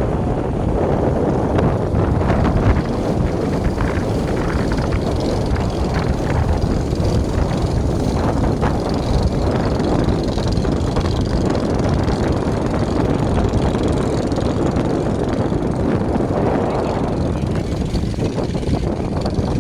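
Motor fishing boats' engines running steadily, a loud, dense low drone.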